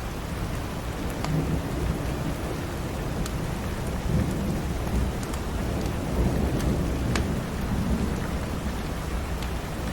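Steady rain with a low rumble of thunder that swells and fades through the middle, and scattered sharp crackles from a wood fire in a fireplace.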